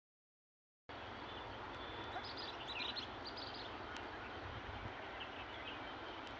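Wild parakeets calling: a quick cluster of short, high chirps, some falling in pitch, about two seconds in, and a few fainter ones later, over steady background noise.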